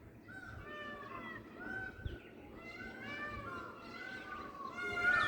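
Peacock calling: a run of short, cat-like calls that rise and fall in pitch, about two a second, growing louder near the end.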